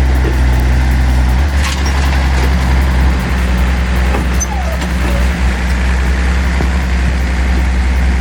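A large engine running steadily, with a deep, even drone and a few faint clicks over it.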